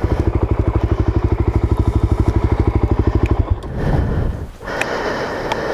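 Suzuki DRZ400S single-cylinder four-stroke engine chugging at low revs with an even, fast thudding beat, which breaks off about three and a half seconds in into irregular, uneven running. The engine is popping and sputtering on the climb, which the rider puts down to running a little lean on a tank of bad gas.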